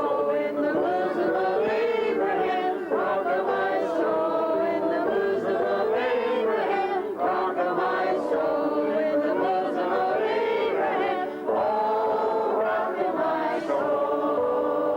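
A school choir singing a song together, sustained notes moving from phrase to phrase.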